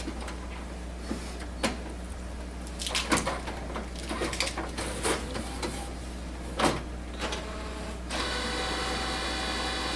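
Epson WorkForce WF-7610 inkjet printer's mechanism working through its start-up preparation: a series of clicks and clacks, then from about eight seconds in a steady motor whine.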